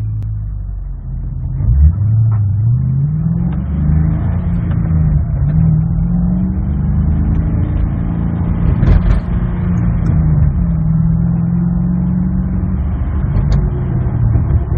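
2007 Ford Mustang's engine through a Magnaflow Magnapack cat-back exhaust, heard from inside the cabin. It pulls away about a second in with the revs climbing, drops back at a gear change, then climbs again and settles into a steady cruise, easing off near the end.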